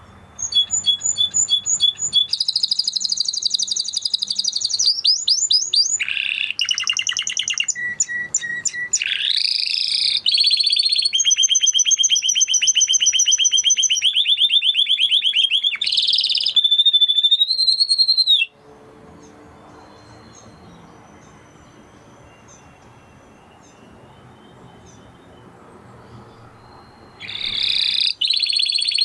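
Canary singing a long song of rapid trills and rolling phrases. The song breaks off about two-thirds of the way through into a pause of some eight seconds with only faint background hiss, then starts again near the end.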